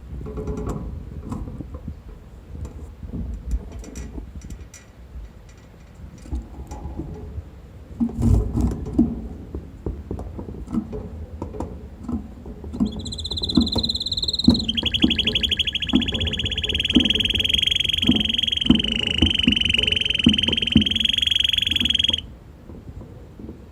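Red canary singing: after some faint low knocks and rustling, a short high whistled note leads into a long, rapid rolling trill of about eight seconds that stops abruptly.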